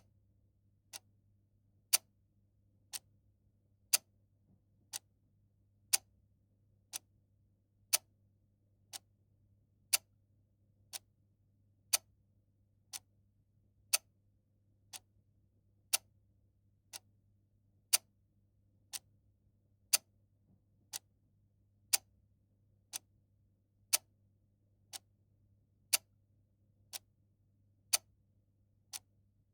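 Clock ticking steadily once a second, a louder tick alternating with a softer one in a tick-tock pattern, over a faint steady low hum.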